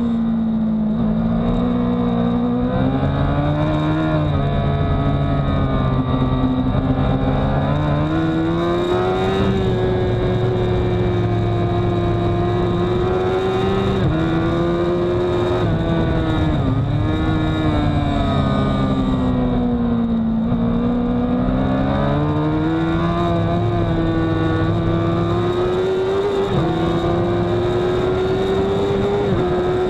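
Honda CBR1000RR's inline-four engine heard from on board at racing speed, revving hard: the pitch climbs under acceleration, steps down at gear changes and falls away under braking, then climbs again.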